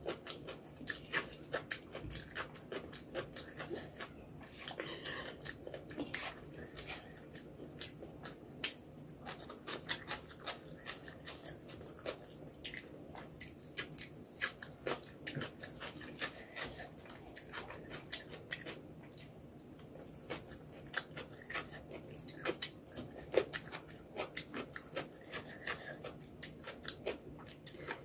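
Close-miked eating sounds: chewing and lip-smacking on a mouthful of rice and egg curry eaten by hand, with frequent irregular wet mouth clicks.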